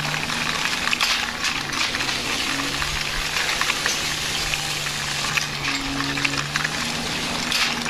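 Toy wheel loader's wheels rolling and scraping over rough concrete as it is pushed by hand: a continuous gritty crackle.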